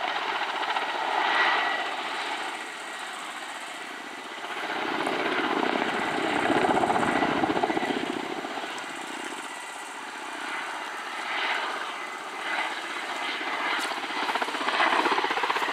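Kamov Ka-52 coaxial-rotor attack helicopter flying a display, the rotor and turbine noise swelling and fading as it manoeuvres, loudest and deepest around the middle.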